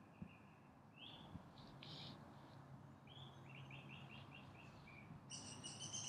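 Faint forest songbird calls: a rising note about a second in, then a quick run of about eight short chirps, and a louder, harsher call near the end.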